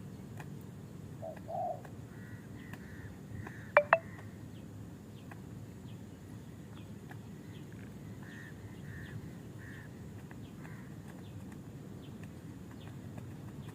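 A spotted dove gives a short coo about a second and a half in, with soft repeated chirps from small birds around it. Two sharp, loud clicks come in quick succession just before four seconds in.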